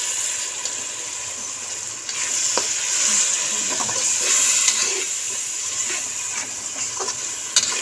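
Onion-tomato masala frying in oil in a steel pan, sizzling loudly after a light splash of water, while a metal slotted spatula stirs and scrapes the pan bottom. The sizzle swells again about two seconds in, with a few sharp scrapes of the spatula.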